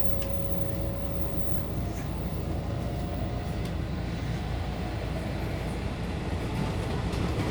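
JR local train running, a steady low rumble with a faint whine over it.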